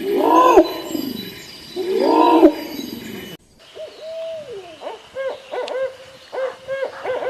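A big cat roars twice, each roar loud and pitched and under a second long. After an abrupt cut a little past halfway, a different animal gives a quick series of short calls that rise and fall in pitch.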